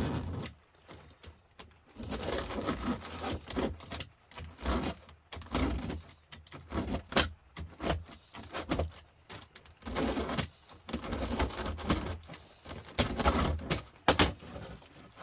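Aluminium fins being stripped off the copper pipes of a humidifier's radiator coil: irregular metallic scraping and crinkling with a few sharp clicks.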